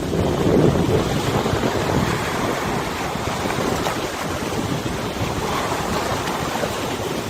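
Wind buffeting the microphone over river water, a steady rushing noise that swells with a stronger gust about half a second in.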